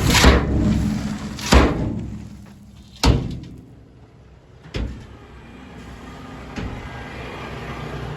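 Super dump truck finishing its unload of rock: a loud rumble of rock sliding out dies away over the first two seconds. Four sharp metal bangs from the truck come about a second and a half apart, then the truck runs on at a low steady level.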